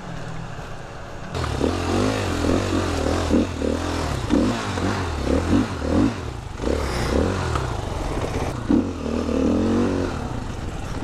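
Motorcycle engine on an off-road trail ride, idling quietly at first, then revved hard about a second and a half in, its pitch rising and falling repeatedly as the throttle is worked.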